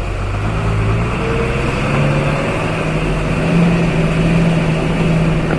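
Heavy truck engine pulling under load on a steep uphill climb, its note stepping up in pitch a second or two in and then holding steady.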